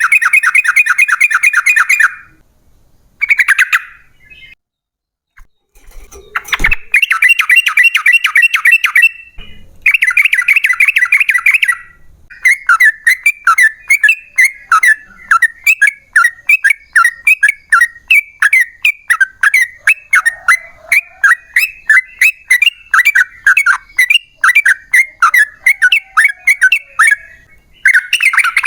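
Yellow-vented bulbul (trucukan) singing fast rattling runs of repeated bubbly notes, first in bursts of a couple of seconds with short gaps, then from about twelve seconds in one long unbroken chattering series. A brief low thump comes about six and a half seconds in.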